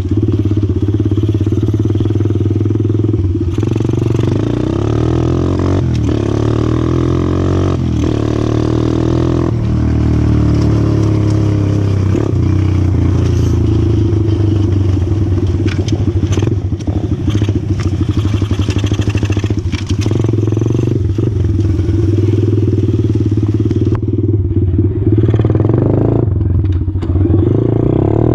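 125cc four-stroke pit bike engine running under way, its pitch rising and falling with the throttle, with scattered rattles and clatter.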